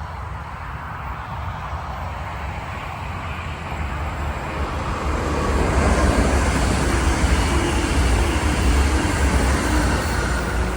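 Electric train passing on the SBB mainline: the rumble of wheels on rail builds to a peak about six seconds in and starts to fade near the end.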